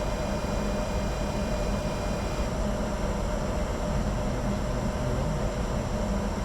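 Steady cabin noise on the flight deck of a Bombardier Challenger 605 in flight: an even rush of air with a constant low hum. A few faint high tones drop out about two and a half seconds in.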